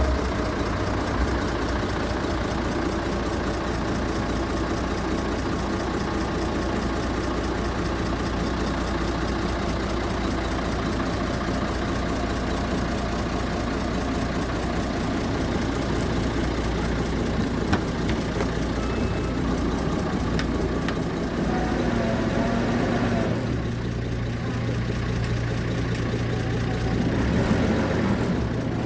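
An engine running steadily with a low hum. About three-quarters of the way through, its note changes and the higher hiss drops away.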